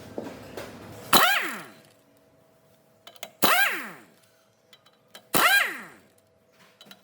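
Hammer blows on metal, three strikes about two seconds apart, each leaving a ringing tone that dies away within about half a second.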